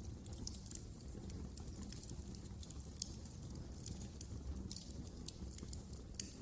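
Wood fire crackling in a fireplace: irregular sharp pops and snaps over a steady low rumble of burning, with a louder pop about three seconds in and another near the end.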